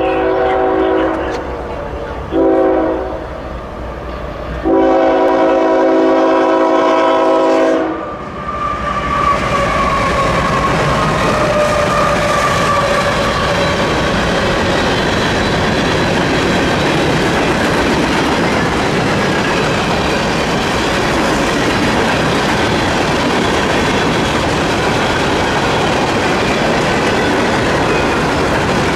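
Diesel freight locomotive's multi-note air horn sounding a long, a short and a long blast, the close of a grade-crossing signal. Then the manifest freight train's cars roll past with a steady rumble and the clickety-clack of wheels over rail joints.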